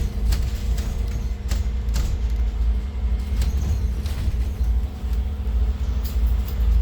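Interior of a Scania N280UD double-decker bus with a 9-litre CNG engine and Voith four-speed gearbox, heard from the top deck. A steady low rumble of engine and road carries a constant hum, with a few short rattles and clicks from the body about 1.5 s, 2 s and 4 s in.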